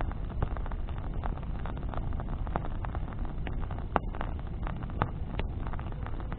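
Bonfire crackling, with frequent sharp pops of burning wood and a few louder ones about four and five seconds in, over a low steady rumble.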